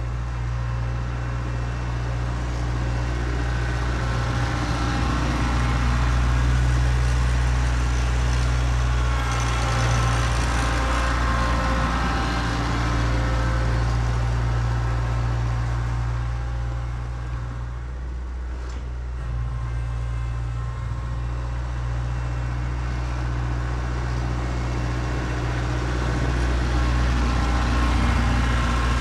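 An engine running steadily, its level swelling and easing slowly, with a brief dip a little past halfway.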